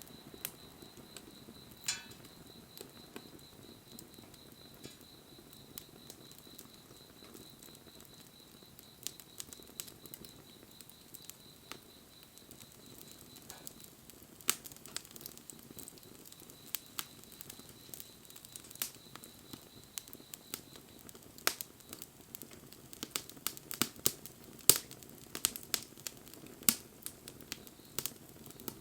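Wood fire crackling: scattered sharp pops and snaps over a low hiss, growing more frequent in the second half.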